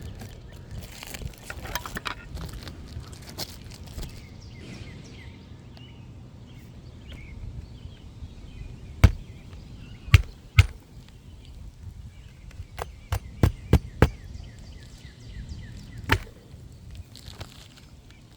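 Hammer driving roofing nails into an asphalt shingle: a few single sharp blows about halfway through, then a quick run of about six strikes, then one more blow near the end.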